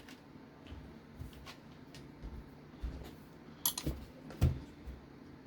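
Light clicks and taps of small hard parts being handled while battery brackets and a battery strap are fitted to an RC car chassis, with a few sharper clicks about three and a half to four and a half seconds in.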